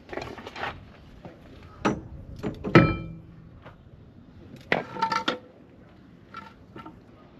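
Irregular metallic knocks and clanks of tools and steel parts being worked on a seized driveshaft and hub. The loudest clank, about three seconds in, rings briefly; a quick cluster of clanks follows around five seconds, then two lighter knocks near the end.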